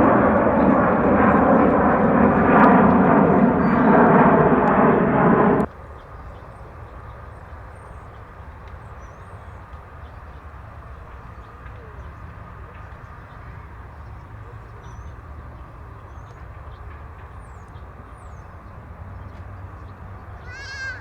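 Jet airliner engines at takeoff power: a loud roar with several steady whining tones. About six seconds in it cuts off abruptly, leaving a quiet steady background with faint high chirps.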